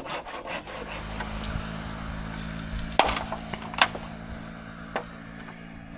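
Bamboo being chopped: three sharp strikes, about three and five seconds in, over the steady low hum of an engine.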